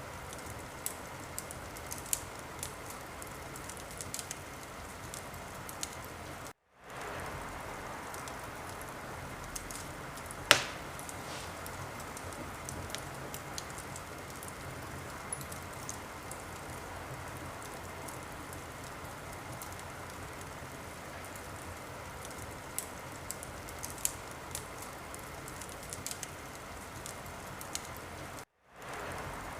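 Wood fire crackling in a fireplace: a steady hiss with scattered small pops, and one louder pop about ten seconds in. The sound drops out for a moment twice.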